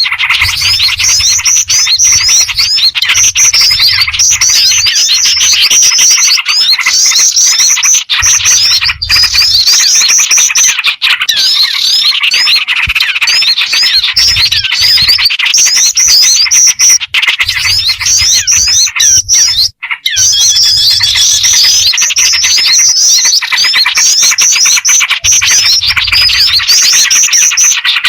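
Bird-lure recording of black-winged flycatcher-shrike (jingjing batu) calls mixed with chatter from small birds and yellow-vented bulbul (trucukan) calls. Dense, loud high-pitched chirping, with a bright phrase repeating every second or two.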